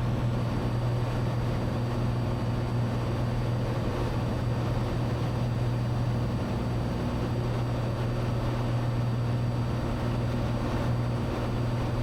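Cessna 182's six-cylinder piston engine and propeller drone steadily in cruise flight, with a steady low hum and a faint high whine.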